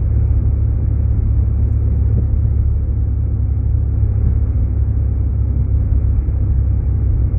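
Steady low rumble of road and engine noise heard inside a Jeep Grand Cherokee's cabin while it drives.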